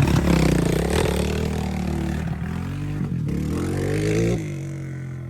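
Dirt bike engine revving hard, its pitch rising and falling, then dropping back to a quieter, lower run about four seconds in.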